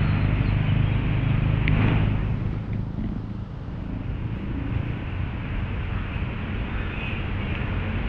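Steady low rumble of motor traffic, a little louder for the first two seconds or so and then easing off slightly.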